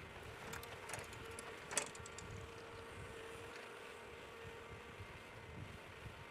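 Heavy forestry machine running at a distance: a steady low engine rumble with a faint steady whine, and a few sharp knocks, the loudest a little under two seconds in.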